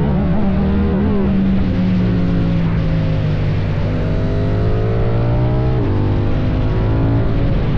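KTM 790 Duke's parallel-twin engine through an Akrapovic exhaust, running loud and steady. Its pitch swoops briefly near the start, climbs for about two seconds, then drops sharply about six seconds in.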